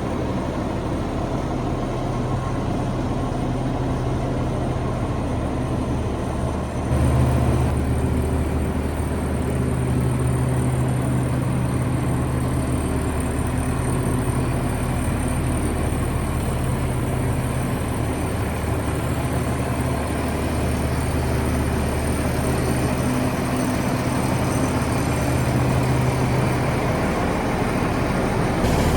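Cummins ISL diesel engine of a front-load garbage truck running steadily with a deep hum, becoming a step louder and heavier about seven seconds in.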